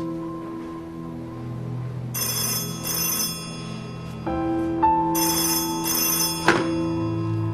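Telephone bell ringing in double rings, two ring-ring pairs about three seconds apart, over sustained background music.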